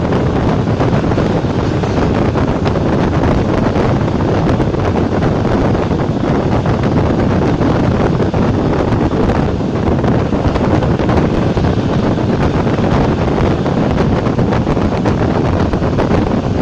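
ČD class 460 electric multiple unit running along the line: a steady, loud mix of running noise and wind buffeting the microphone.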